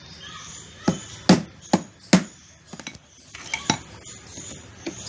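About ten sharp, irregularly spaced knocks and clinks of hard objects being struck or set down, with three quick small taps in a row near the middle.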